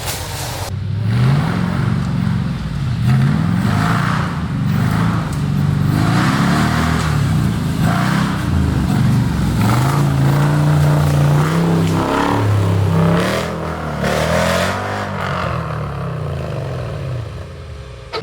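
Off-road competition 4x4's engine revving hard over and over, its pitch climbing and dropping, with scraping and clattering, easing off near the end.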